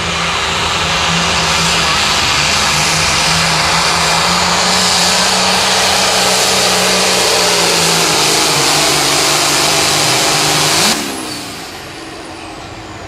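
A John Deere 4440 pulling tractor's diesel engine runs flat out under load down the pull track, its note sagging slowly as the sled bears down. About eleven seconds in, the engine shuts off sharply at the end of the pass and drops to a much quieter running.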